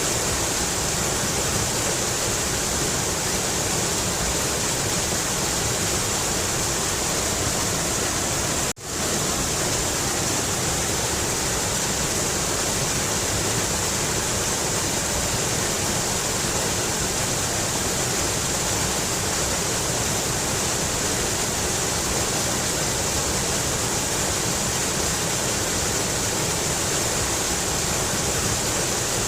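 Mountain river rushing steadily, a continuous hiss of moving water. The sound drops out for a split second about nine seconds in.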